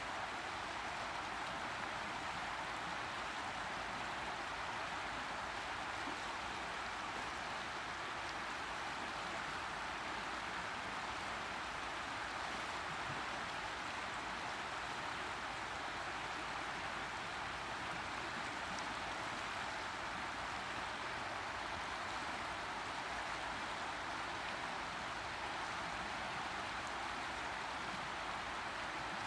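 Boise River flowing: a steady, even rush of moving water with no changes.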